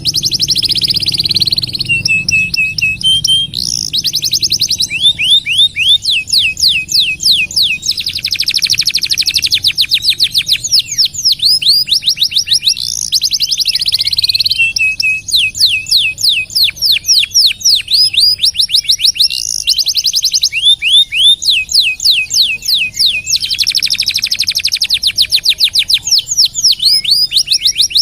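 Domestic canary singing a long, unbroken song: fast trills of repeated down-slurred notes alternating with buzzy rolling passages.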